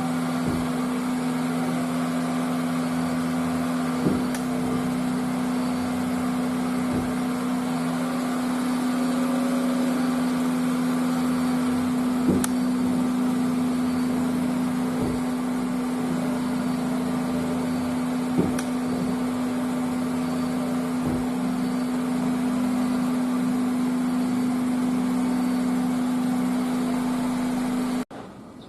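A car running at idle: a steady mechanical hum with one constant tone, a few faint clicks, and an abrupt cut-off at the very end.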